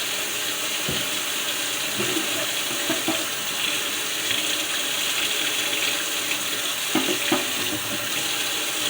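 Kitchen tap running steadily into a sink, with a few light knocks and clatters of an item being handled under the water.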